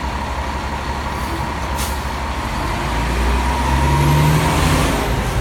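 FDNY fire engine's diesel engine running and revving up as the rig pulls out, with a short hiss of air about two seconds in.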